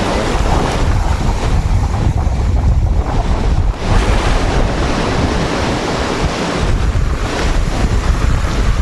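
Storm surf breaking on the beach, with strong wind buffeting the microphone in a steady low rumble.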